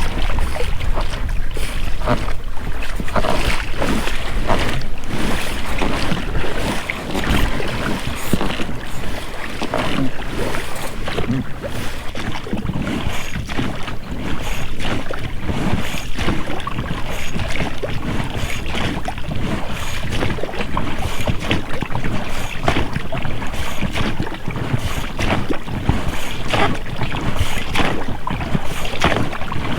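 Oars of an inflatable rowing boat dipping and splashing in the water, with the rubber rowlocks working at each stroke, in an irregular run of short splashes over steady water noise. Wind rumbles on the microphone.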